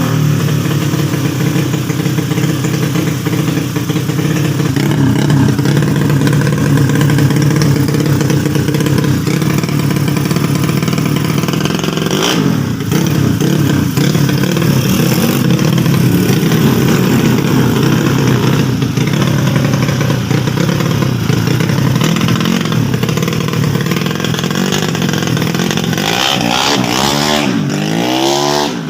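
Honda Beat scooter engine bored up to 130cc, running steadily at a fast idle, with a few quick rises and falls in revs near the end.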